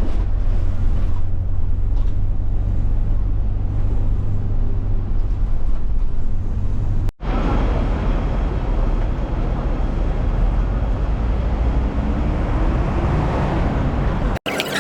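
Steady low rumble of road traffic or a moving vehicle's engine, with hard cuts about halfway through and near the end.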